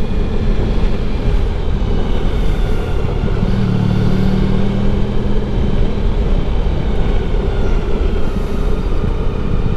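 Motorcycle riding along: a steady engine hum over a dense low rumble of wind and road noise, the engine note growing stronger for a couple of seconds in the middle.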